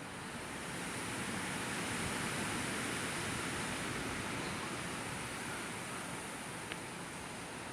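Thunderstorm ambience: a steady hiss of wind and rain that swells over the first couple of seconds and then eases a little. A single faint click comes near the end.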